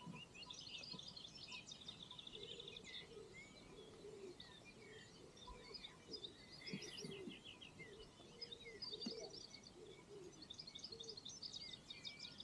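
Faint songbirds singing, with overlapping chirps and rapid trills.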